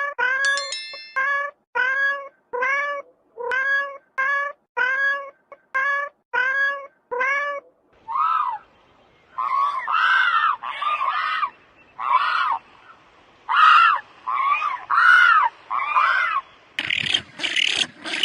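A series of short animal calls repeated about once every two-thirds of a second. About eight seconds in, a second, rougher and higher-pitched run of calls follows. Near the end a different noisy sound begins.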